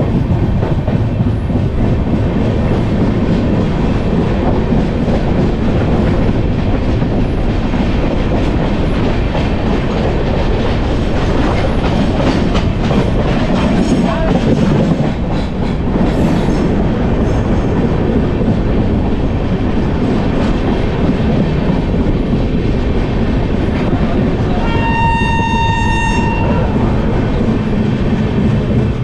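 Farakka Express passenger train running on the rails, a steady loud rumble with wheel clatter. About 25 seconds in, a train horn sounds for about a second and a half.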